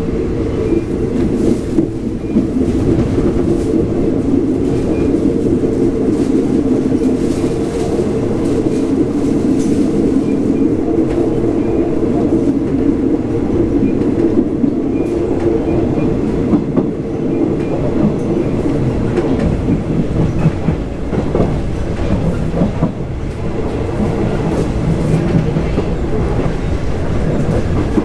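Moving passenger train, heard from inside a third-class coach: a steady loud rumble and rattle, with scattered clacks from the wheels crossing rail joints.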